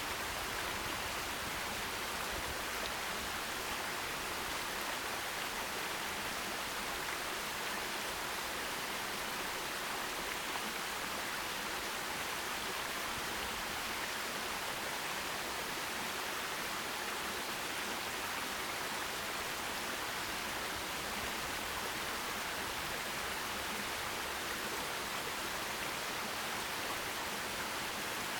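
Forest stream rushing steadily: an even, unbroken hiss of water.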